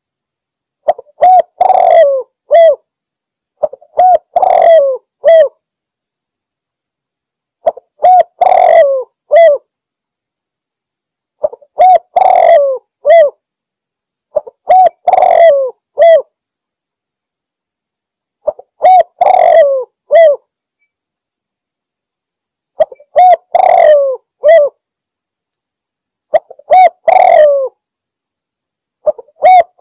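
A male spotted dove (tekukur) cooing its song, a lure call for rival birds: about eight phrases of several low coos each, repeated every few seconds with silence between.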